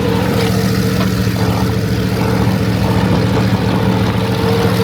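Monster truck engine running steadily at a constant, low pitch, loud and close.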